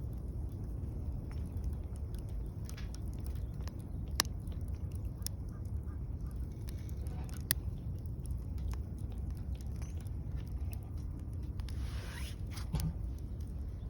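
Wood fire burning, with scattered sharp crackles and pops over a steady low rumble, and a short hiss near the end.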